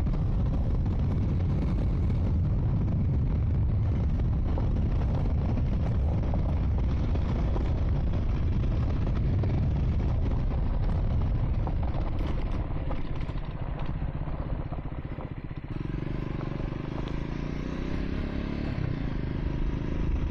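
Triumph Scrambler 400 X's single-cylinder engine running while riding a dirt track, with dense rough road noise over it. About three-quarters of the way through it eases off briefly, then the engine's note comes through clearer and steady.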